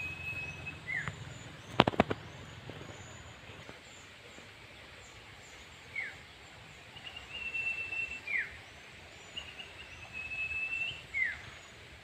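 A bird singing: a held whistled note followed by a quick falling note, repeated about three times, with faint high chirps behind. A few sharp knocks about two seconds in are the loudest sounds.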